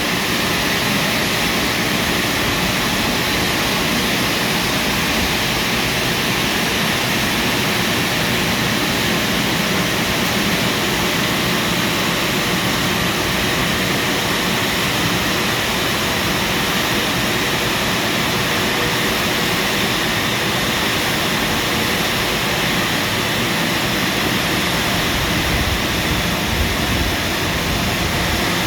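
Washtec SoftCare Pro car wash drying blowers running, a steady loud rush of air over the car.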